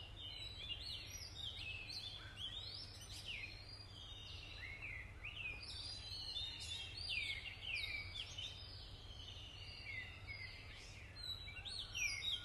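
Several birds singing and chirping at once, many short rising and falling whistles and trills overlapping, over a faint steady low rumble.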